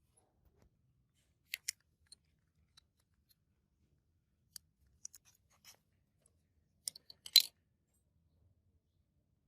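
Small hand tools and model-car parts clicking and tapping at a workbench. A few sharp clicks come with long quiet gaps between them: a pair about a second and a half in, and the loudest cluster near the end.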